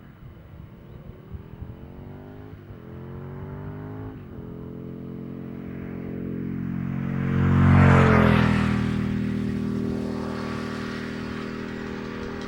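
Aprilia RSV Mille R's 998 cc V-twin accelerating through the gears, with two upshifts heard as quick drops in pitch. It then passes close and loud about eight seconds in, its pitch falling as it goes by, and fades away.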